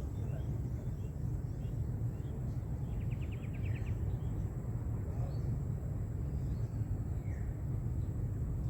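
Outdoor ambience: a steady low rumble with faint bird chirps, including a short rapid trill about three seconds in.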